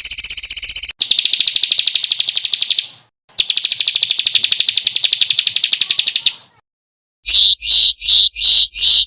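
Small songbird recordings of very rapid, high-pitched trills ("tembakan" bursts), two long runs with a short break between them. After about a second's pause comes a series of separate sharp chirps, roughly three a second.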